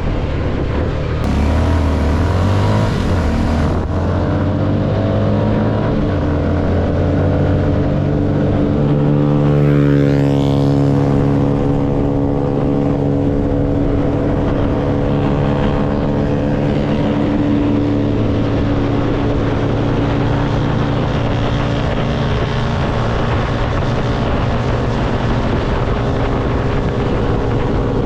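CFMoto motorcycle engine running under way, heard from the rider's seat. About nine seconds in it revs up, then settles to a steady cruise.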